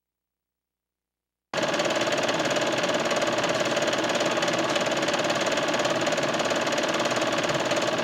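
Silent for the first second and a half, then a heavy machine's diesel engine running steadily with a fast, even clatter.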